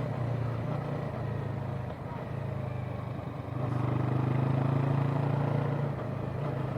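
Yamaha parallel-twin sport bike running steadily while being ridden, with wind noise on the microphone. The engine eases off briefly around two seconds in, then grows louder again about three and a half seconds in as it pulls harder.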